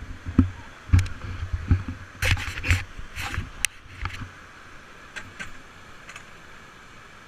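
Paddles and a river raft knocking and splashing: a string of irregular knocks and splashes for about four seconds, the loudest a little after two seconds, then a steady faint rush of river water.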